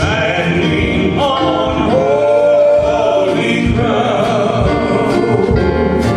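Gospel worship music: a sung melody over instrumental accompaniment, with a long wavering note held about halfway through.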